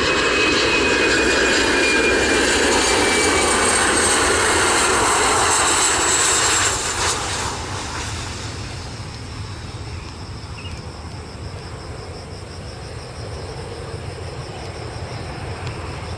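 Boeing 737-300 freighter's CFM56 jet engines during its landing pass: a loud jet noise with whining tones that slowly fall in pitch. About seven seconds in, the sound drops away to a lower, steadier rumble.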